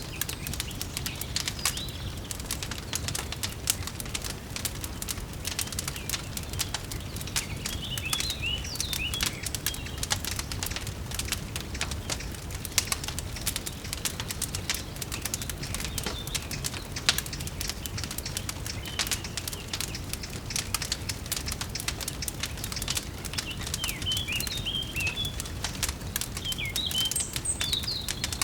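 Wood fire crackling steadily in a fireplace, with dense sharp pops over a low rumble. Small birds chirp briefly about eight seconds in and again near the end.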